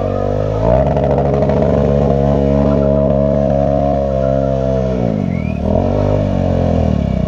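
Stunt motorcycle's engine revved up and held at high revs for about four seconds, dropping back about five seconds in, then revving up again.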